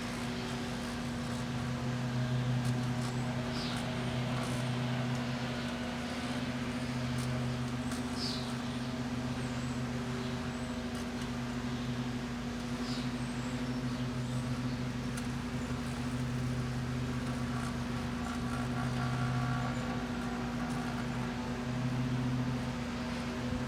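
Two Proctor-Silex microwave ovens running at once: a steady electrical hum with fan noise, the lower part of the hum swelling and easing every few seconds. A few faint, short high chirps sound over it.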